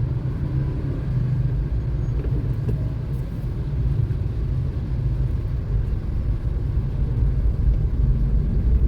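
Steady low rumble of a car driving on a city road: engine and tyre noise without sharp events.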